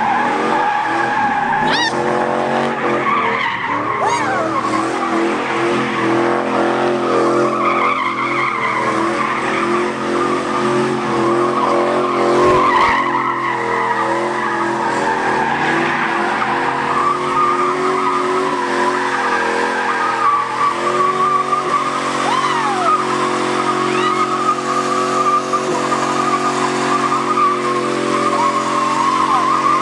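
Trucks being spun in circles, engines held at high revs with tyres squealing and skidding on the pavement without a break.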